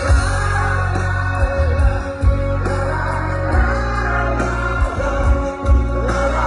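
Live rock band playing loudly, with heavy bass and drums, and singing over it.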